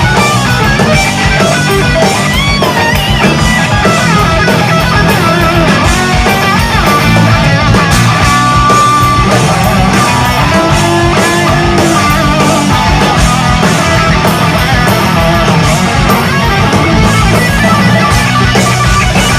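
Live heavy metal played loud: a distorted electric guitar playing a lead solo, with bent notes and a long held, wavering note about eight seconds in, over the full band.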